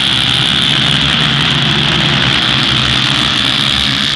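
A pack of motocross bikes running at high revs together: a loud, steady engine din with no pauses.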